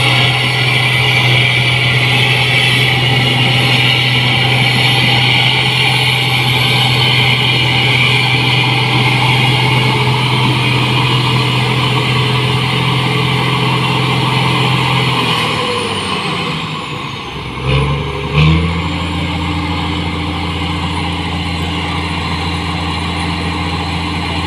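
New Holland 8060 combine harvester's diesel engine running at steady high revs. A little past halfway the revs drop with a falling whine, two sharp knocks follow, and the engine settles at a lower, steady speed.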